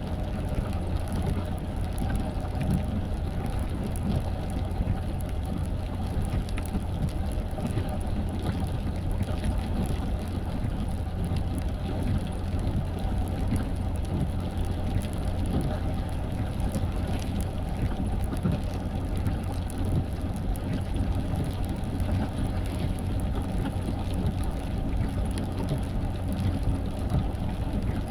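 Car driving steadily in the rain: a constant low road and engine rumble with the noise of rain on the car.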